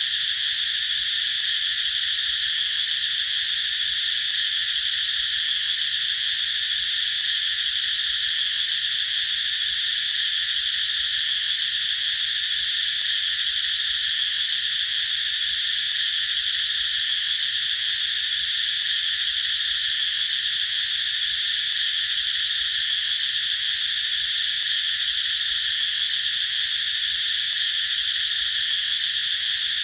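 Cicadas singing in chorus: a continuous, steady high-pitched buzzing drone.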